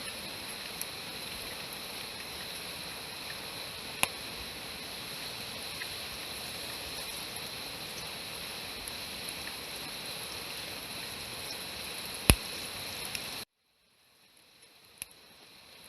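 Steady rushing of flowing stream water, with a few sharp clicks over it. It cuts off abruptly near the end.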